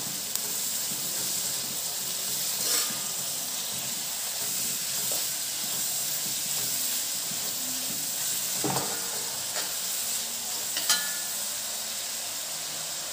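Sliced shallots, green chillies and curry leaves sizzling steadily in hot coconut oil in a kadai as a spatula stirs them, with a few short knocks of the spatula against the pan.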